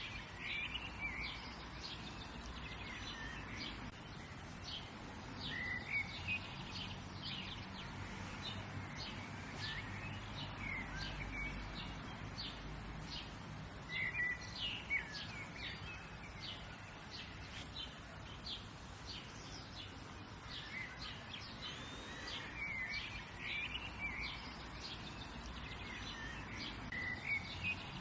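Songbirds chirping and singing: many short chirps throughout, with a brief warbling song phrase every several seconds, over a faint low steady hum.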